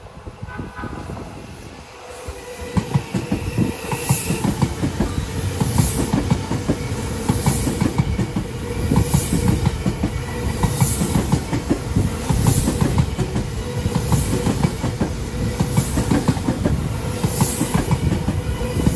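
An Odakyu Romancecar express train passing close by on the near track: a rising rumble, then steady rapid clatter of wheels over the rail joints, with a swell of hiss every second and a half to two seconds as each car goes by.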